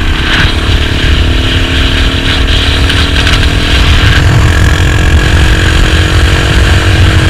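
Motorcycle engine running while under way, its pitch rising slowly and steadily, over a heavy low rumble.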